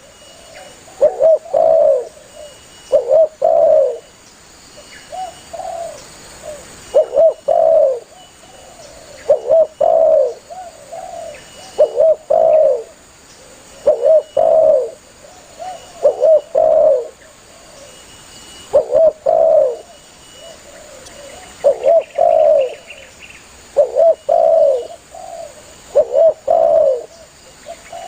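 Spotted dove (tekukur) cooing steadily, a short phrase of two or three coos repeated about every two seconds, one phrase a little fainter than the rest.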